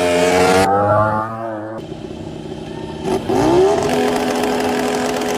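Racing motorcycle engine running loud, its pitch wavering and dropping in the first couple of seconds, then rising sharply about three seconds in and holding steady.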